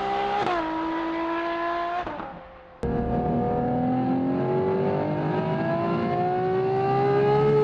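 Naturally aspirated 65-degree Ferrari F140HD V12 running at high revs: a pitched wail that drops with an upshift about half a second in, then climbs and fades out. It cuts back in sharply about three seconds in and rises steadily in pitch as the engine pulls through a gear.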